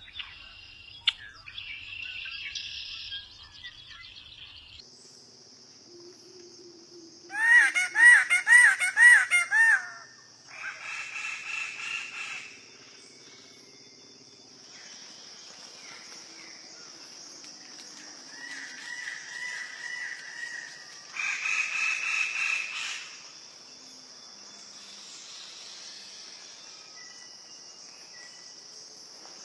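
Birds calling in several short bouts: the loudest is a quick run of repeated arching notes about seven seconds in, with more calls near eleven, nineteen and twenty-two seconds. A steady high-pitched drone runs underneath from about five seconds in.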